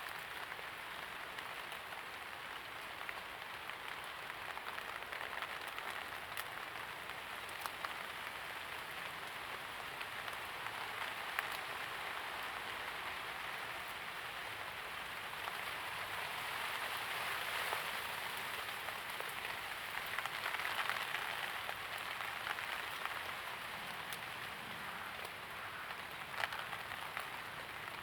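Steady light rain falling, an even patter with scattered sharper drips, swelling a little in the middle.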